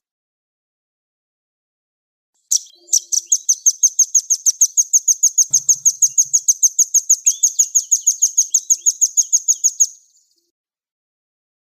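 Velvet-fronted nuthatch (rambatan) calling: after a pause, one sharp high note and then a fast, even run of repeated high chipping notes, about seven a second, lasting some seven seconds before stopping abruptly.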